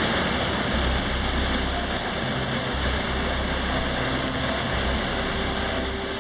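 Steady roar of a waterfall, loud and even. Faint steady musical tones come in during the second half.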